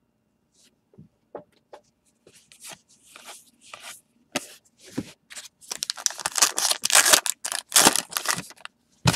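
A baseball card pack being torn open and handled: scattered clicks and rustles, then a dense stretch of crinkling and tearing wrapper from about six seconds in.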